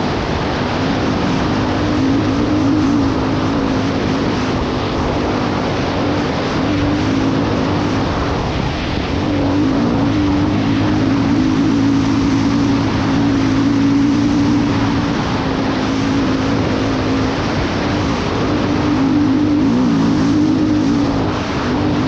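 1995 Honda XR600R's single-cylinder four-stroke engine running wide open at steady high revs, its pitch wavering slightly, over a constant rushing hiss.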